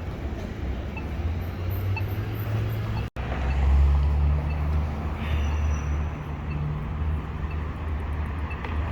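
Steady low rumble of vehicle traffic with road noise, broken by a brief dropout about three seconds in.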